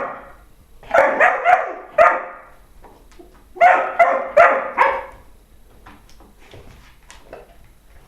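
A dog barking in two quick bursts of about four barks each, a second or so apart, followed by a few faint light clicks.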